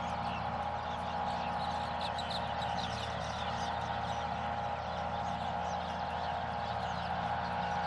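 Birds chirping in many short, high calls over a steady hum.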